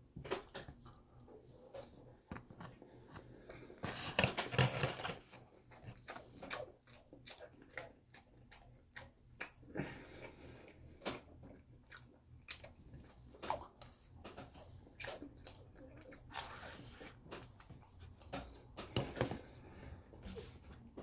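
Close-up mouth sounds of a person chewing a forkful of loco moco (rice, hamburger patty and gravy), a steady run of short wet clicks. There are louder stretches about four seconds in and again near the end.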